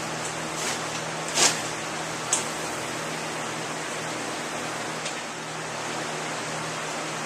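Steady rushing hiss with a faint low hum, broken by three short sharp sounds in the first two and a half seconds, the loudest about a second and a half in.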